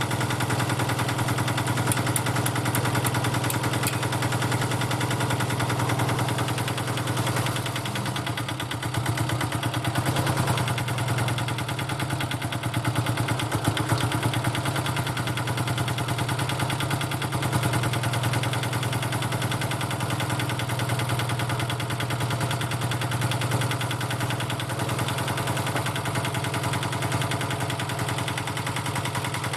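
Powerfab 125 mini digger's air-cooled diesel engine running steadily, with a low, even beat and a slight swell in level around the middle.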